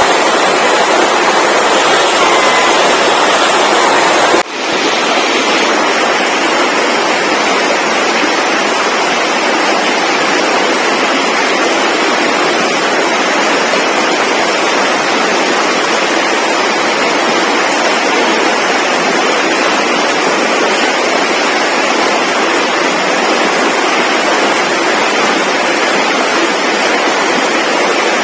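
Loud, steady rushing noise without any tone or rhythm, with a brief sharp drop about four seconds in, where the recording cuts.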